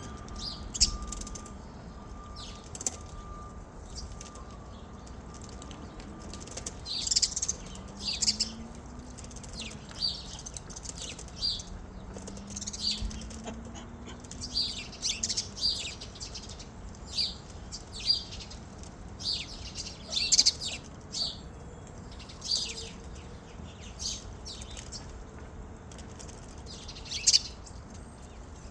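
Small birds chirping: many short, high chirps, about one or two a second, throughout.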